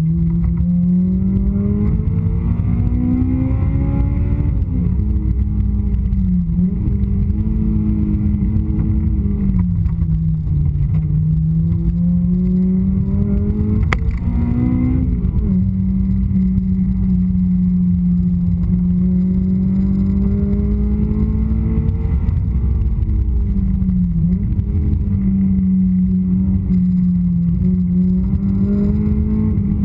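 Honda S2000's four-cylinder engine heard from inside the cabin at full track pace. Its revs climb and fall through the corners, dip sharply several times and hold steady for long stretches. A single sharp click comes about halfway through.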